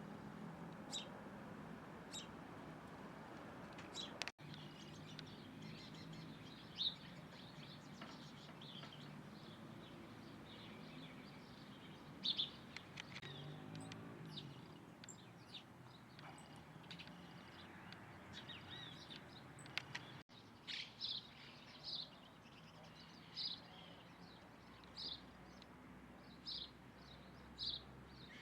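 Small birds chirping: short high chirps, scattered at first, then coming about once a second in the last several seconds, over a faint low hum.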